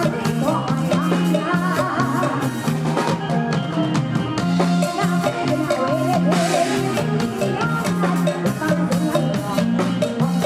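Live Isan band music with a drum kit and a repeating bass line under a bending melodic lead.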